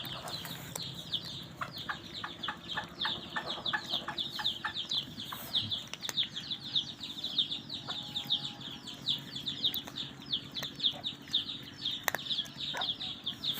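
Chicks peeping without pause, a fast run of short, high, falling chirps, several a second. A row of light ticks sounds under the peeping for a few seconds near the start.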